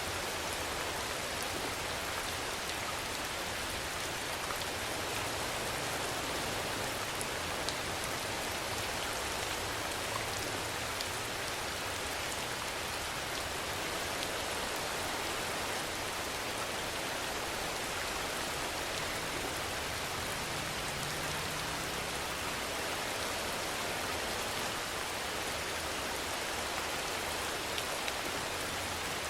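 Steady rainfall: a dense, even hiss of rain on a surface, with a few single drops ticking out now and then.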